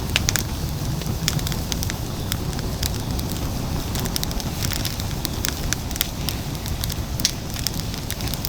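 Firewood burning in a fire pit, crackling with frequent irregular sharp pops and snaps over a steady low rumble.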